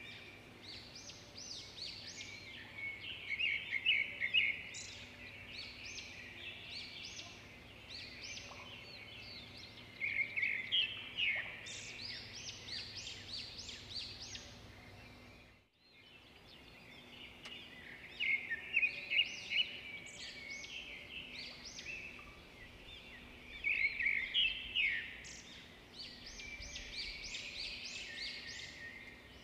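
Wild birds chirping and calling in rapid clusters of short, high, rising notes over a faint steady background. The sound cuts out briefly about halfway through.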